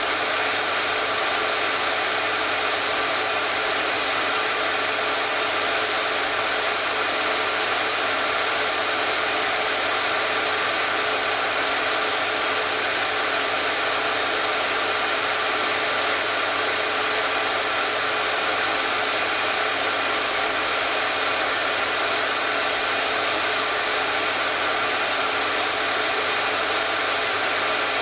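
Electric hair dryer running steadily at constant speed: an even, unchanging rush of air with a steady motor hum.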